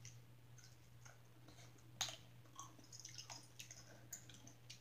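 Faint chewing of stewed meat: soft wet mouth smacks and clicks at irregular moments, the clearest about two seconds in.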